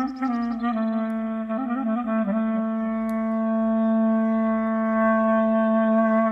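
Clarinet playing a slow melody with small ornamental turns between notes, then holding one long low note from about two and a half seconds in.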